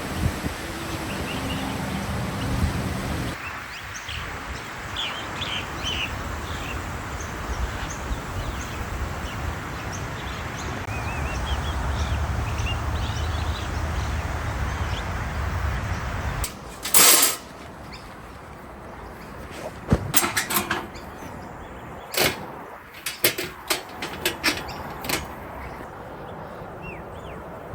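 Outdoor breeze noise with small birds chirping, which gives way abruptly to a quieter background with a run of sharp separate knocks and clicks, the loudest a little past the midpoint.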